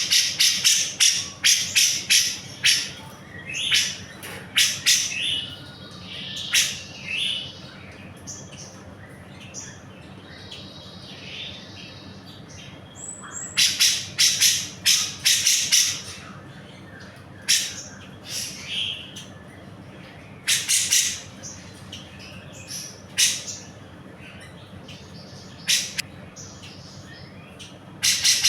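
Cucak jenggot (grey-cheeked bulbul) singing busily in bursts of rapid, sharp high notes, with short pauses between the phrases. A dense burst comes at the start and another about halfway through. A faint steady low hum sits underneath.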